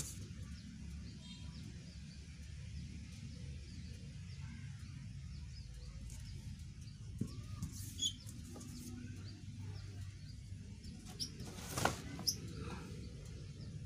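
Low steady background rumble with a few faint, short bird chirps. Two short clicks come near the end.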